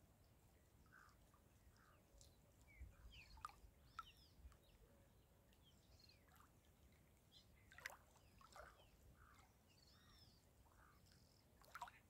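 Faint birdsong: scattered chirps and short arched calls from more than one bird, a couple of sharper calls standing out, over a faint low rumble.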